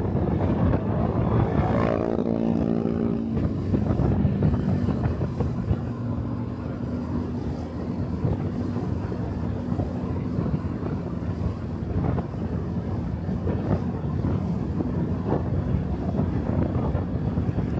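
Motorcycle engine running under way, with wind buffeting the microphone; about two seconds in, the engine note drops in pitch, then holds steady.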